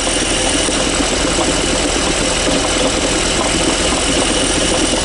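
Car engine idling with the gearbox and clutch removed, its bare dual-mass flywheel giving a steady rapid knocking rattle. The owner blames this knock on a failed dual-mass flywheel whose springs no longer give.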